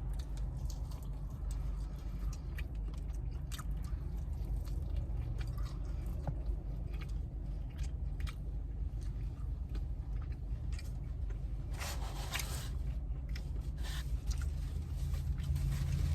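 Close-up chewing and biting on chicken wings, with scattered small wet clicks and a short louder crunching patch about twelve seconds in, over a steady low hum.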